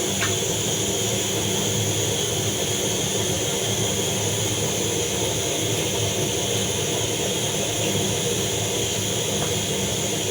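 A pot of meat boiling on the stove: a steady hiss with a low hum underneath.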